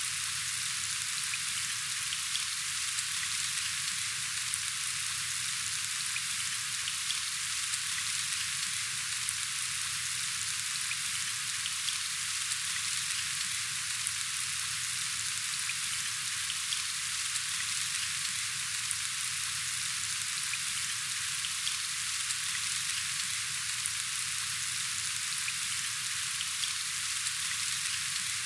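Steady rain falling, an even hiss of countless drops with a few sharper single drops standing out now and then.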